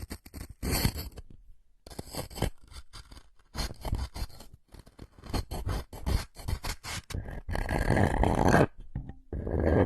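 Close-miked ASMR trigger sounds: a run of short, irregular scratching and scraping noises, with two longer, louder scrapes near the end.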